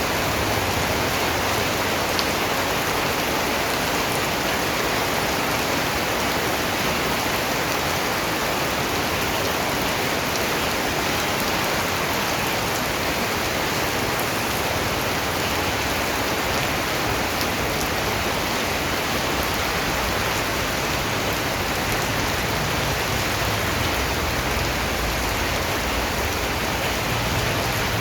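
Steady rain falling, a dense even hiss of drops with a few faint separate drop ticks.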